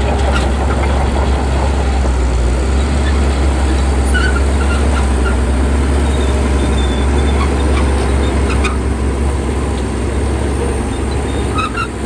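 Bulldozer's diesel engine running steadily under work, a loud deep rumble, with a few short high squeaks now and then.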